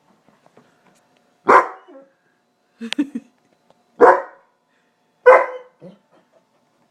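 Weimaraner barking four times, about a second apart, the dog upset by the rain.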